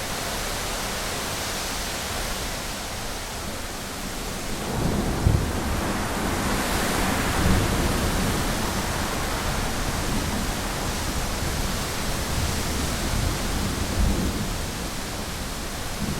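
Heavy rain hissing steadily on a window, with a long roll of thunder rumbling in about four seconds in and running on, with swells, until near the end.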